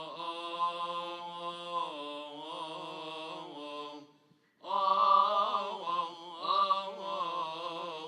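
Coptic liturgical chant: a solo man's voice singing long, wavering, melismatic notes. It pauses briefly about halfway through, then resumes louder.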